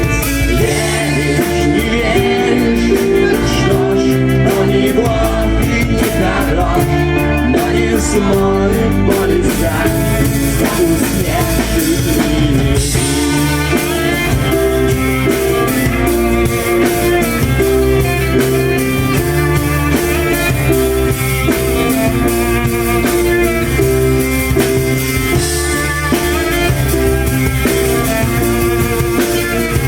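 Live rock band playing a song, with electric guitars and drums, loud and continuous; the sound turns brighter in the top end about twelve seconds in.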